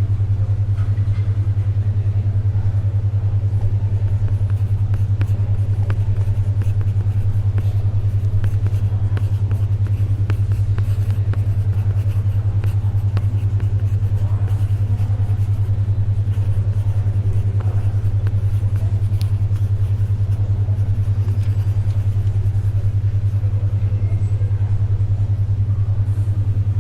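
Steady low hum of a synthetic 10.2 Hz alpha-wave brainwave tone near 100 Hz, with a fast, even pulsing. Underneath it lies faint library ambience with small ticks and scratches of page turning and pencil writing.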